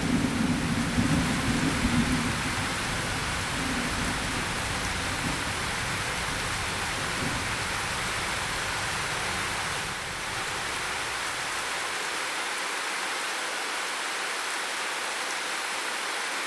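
Steady heavy rain with a low thunder rumble that fades away over the first few seconds, leaving the rain alone.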